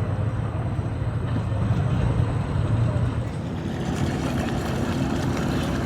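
Engines running: a steady low rumble, joined about three and a half seconds in by a steadier humming engine note.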